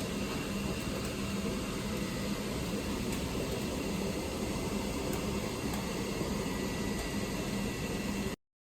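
Steady mechanical hum with hiss, like a running fan or air handler, which cuts off suddenly near the end.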